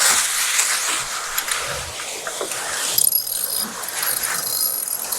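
Wind and water rushing over a J/105 sailboat's deck in fresh breeze and waves. From about three seconds in, a high steady whir with clicking joins it, like a sheet winch being ground.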